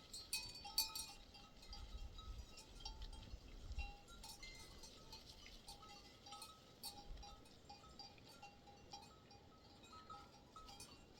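Faint, irregular clinking of bells on grazing livestock, many short strikes at a few fixed pitches.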